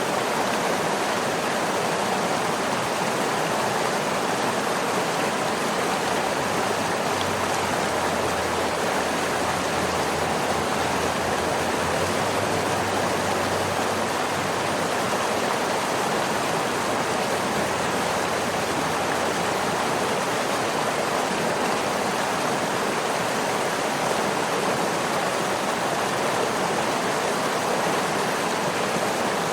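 Waterfall: water falling and rushing in a steady, even roar with no changes.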